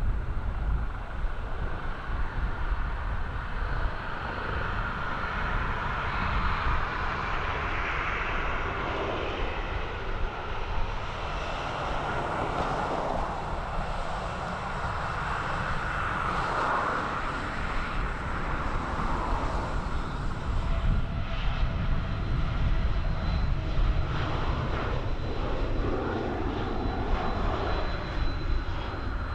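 Turbofan jet engines of a landing Embraer 145 regional jet, a steady whine over a low rumble, giving way about ten seconds in to the engines of a Boeing 737 airliner.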